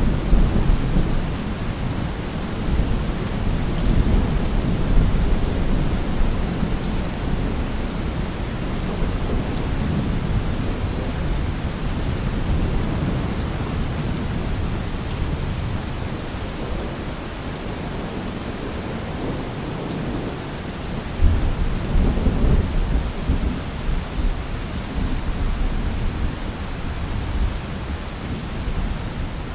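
Thunderstorm: steady rain falling with continuous rolling thunder. A sharper thunderclap breaks about 21 seconds in and rumbles on for several seconds.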